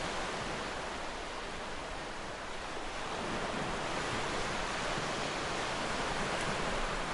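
Ocean surf washing onto a shore as a steady hiss of breaking water, easing slightly about two seconds in and swelling again toward the end.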